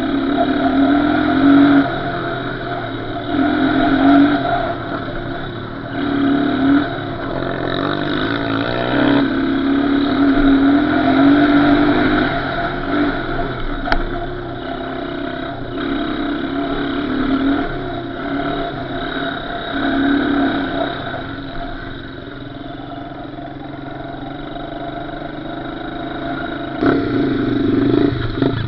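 Small off-road engine being ridden, revving up and easing off over and over every second or two. It settles into a lower, steadier run for a while before a sharp rev near the end.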